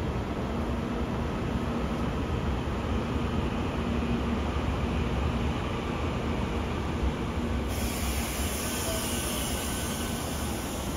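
Puyuma Express TEMU2000 tilting electric multiple unit pulling into the platform, a steady low rumble of wheels and running gear. About eight seconds in, a loud high hiss sets in as the train slows.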